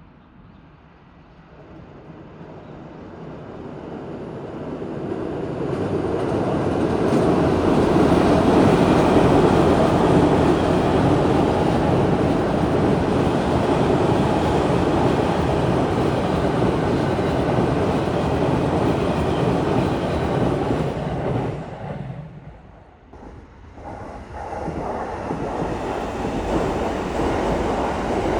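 Electric train crossing a railway bridge: the rumble and wheel clatter build over several seconds and stay loud for a long stretch. Near the end the sound drops away briefly before a second train's rumble starts up.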